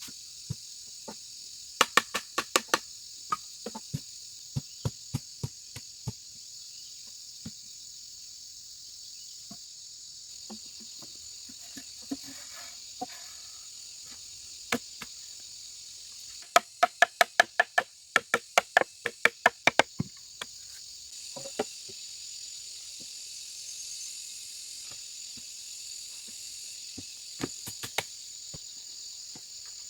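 Runs of sharp knocks on bamboo, a short flurry near the start and a longer fast run of about a dozen strikes past the middle, with single knocks between. Throughout, a steady high chirring of insects.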